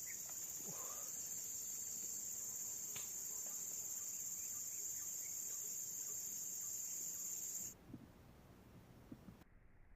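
A steady, high-pitched insect chorus, which cuts off suddenly about three-quarters of the way through and leaves only faint background noise.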